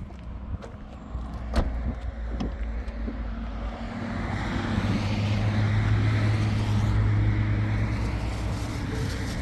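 A motor vehicle's engine drones low and steadily. It grows louder over a few seconds and eases off slightly near the end. A sharp click comes shortly before the drone builds.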